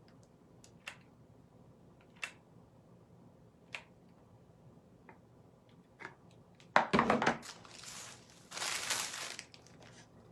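Dry craft moss being crushed and crinkled by hand as it is pressed into place: a few light clicks and taps, then a loud crunch about seven seconds in and a second crinkling rustle just after.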